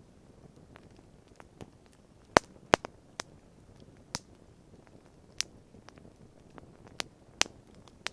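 Wood campfire crackling: irregular sharp pops and snaps, the two loudest close together between two and three seconds in, over a faint low background noise.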